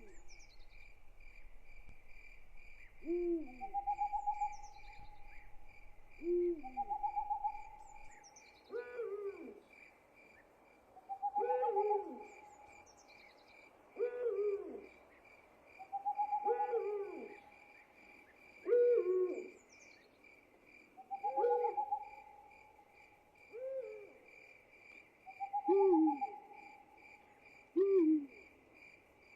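Night ambience: an owl hooting over and over, some calls short and arching, others long and held, every couple of seconds, over a steady pulsing trill of crickets. Thin high falling whistles come in a few times in the first half.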